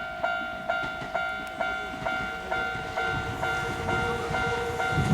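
Japanese railway level-crossing alarm ringing its steady two-tone ding about twice a second, warning of an oncoming Kintetsu train. A low rumble from the approaching train builds from about halfway through.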